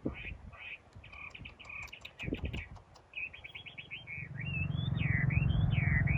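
A songbird singing: short chirps and a quick trill, then swooping whistled phrases that rise and fall. A steady low mechanical hum comes in about two-thirds of the way through and grows louder beneath the song.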